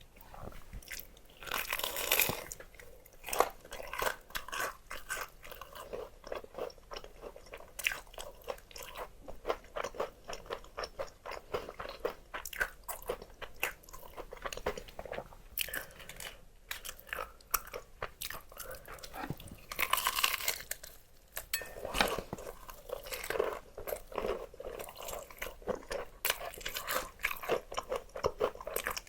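Close-miked crunchy bites and chewing of crispy fried chicken, a dense crackling of crunches, loudest about two seconds in and again around twenty seconds in.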